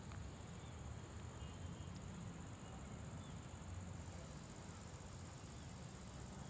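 Steady, continuous high-pitched trilling of insects, with a low rumble underneath and a few faint short chirps.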